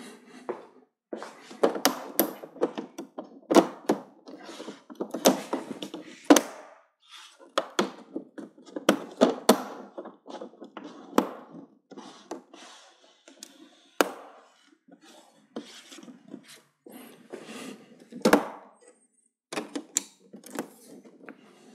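Plastic frame of a Sony LED TV being pressed onto the set by hand, its snap clips clacking into place one after another at irregular intervals, with knocks and plastic rubbing between the clicks.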